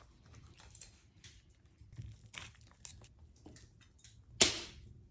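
Scattered soft crackles and light taps of food and kitchenware being handled, with one sharp knock about four and a half seconds in.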